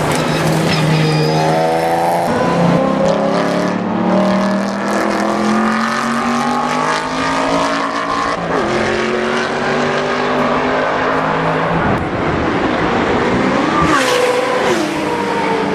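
GT race car engines at full throttle, the pitch climbing and dropping back with each upshift every few seconds as cars accelerate and pass by.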